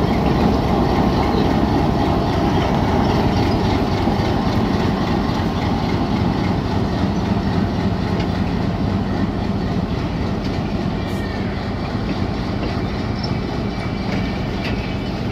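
Passenger train pulling away: the Hitachi diesel-electric locomotive's engine running under power as the coaches roll past on the rails, a steady loud rumble.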